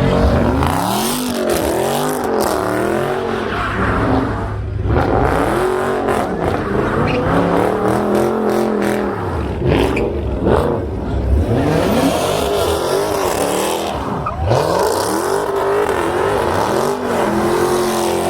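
Car engine revved again and again, its pitch climbing and dropping back roughly once a second, about a dozen times.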